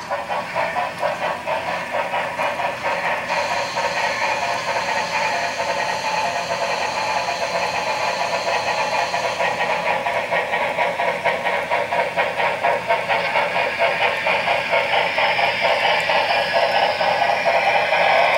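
Sound decoder of an HO scale Shay locomotive model playing a geared steam engine's rapid, even exhaust chuffs as the model runs. A steady high tone sounds over the chuffing from about three to nine seconds in.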